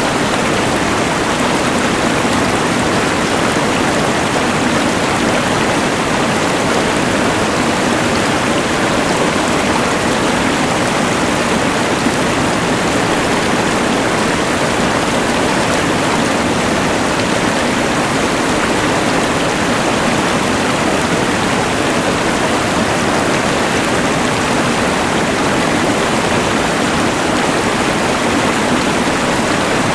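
Rushing mountain river water blended with the steady hiss of a LectroFan white noise machine, an even, unbroken wash of noise.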